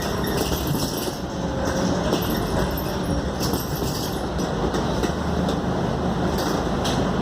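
Scania K280UD double-decker bus under way, heard from inside: steady engine and road noise with a low drone and frequent small rattles from the body and fittings.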